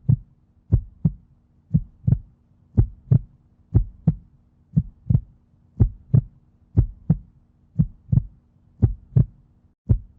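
Heartbeat sound effect: a slow, steady double thump (lub-dub) about once a second, over a faint low hum.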